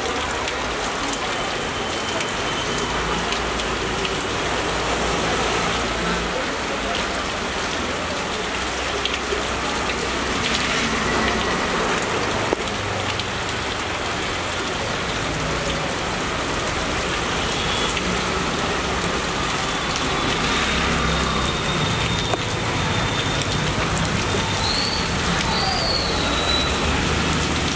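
Heavy monsoon rain falling steadily on foliage and surfaces, with wind gusting in an uneven low rumble.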